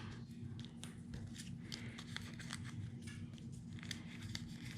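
Die-cut cardstock pieces being popped and pulled out of their sheet: scattered small paper snaps and crackles, over a low steady hum.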